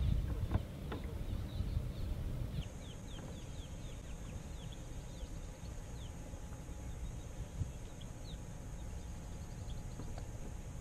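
Small birds chirping: a run of short, quick, downward-sliding chirps that starts a little over two seconds in and thins out past the middle, over a low steady rumble.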